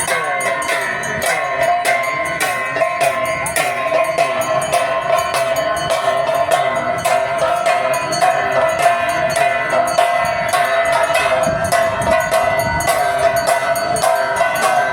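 Aarti bells clanging rapidly and continuously, a steady ringing tone with fast metallic strikes over it, for the whole stretch.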